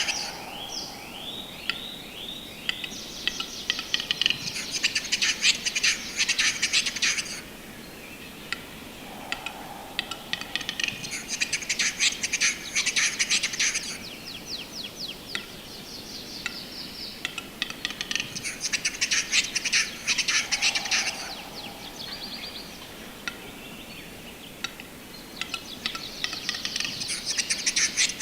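Bird song in repeated phrases, each a few seconds of rapid, high, scratchy notes, coming about every seven to eight seconds; the first phrase opens with a quick run of falling notes.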